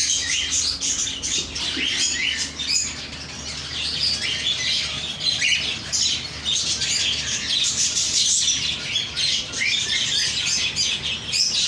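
Many small birds chirping at once, a dense, unbroken chatter of short overlapping high chirps.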